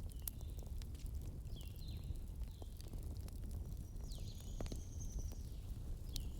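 Wood logs burning in a fireplace: irregular sharp crackles and pops over a low steady rumble, with several short high whistles that drop in pitch and then level off.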